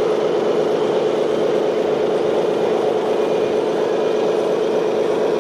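A small electric motor running steadily, with a constant whine.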